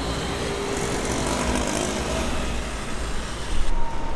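Steady machine noise with a low rumble and a hiss; near the end it grows louder and more uneven.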